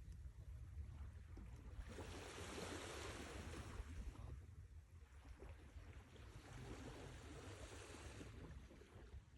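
Sea waves washing onto a shore: two swells of surf, the first rising about two seconds in and fading, the second a few seconds later, over a steady low rumble.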